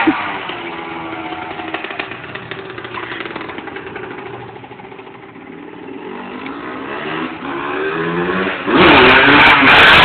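Honda CR125 two-stroke dirt bike engine being ridden, its pitch rising and falling through the gears and throttle. It fades to its quietest around the middle, then grows louder again and is loud near the end.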